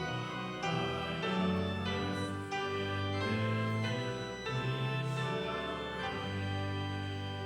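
Hymn tune in slow, held chords, changing about once a second.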